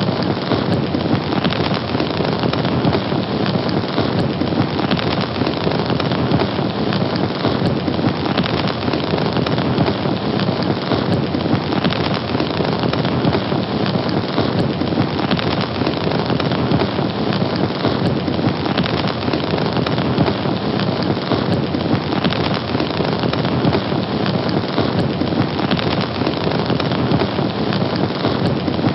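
Fire burning with a steady, dense crackle.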